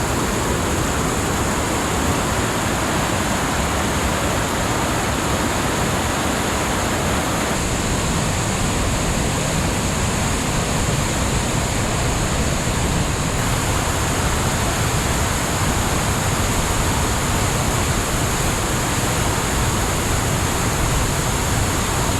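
Mountain creek rushing steadily and loudly close by, a constant roar of falling water.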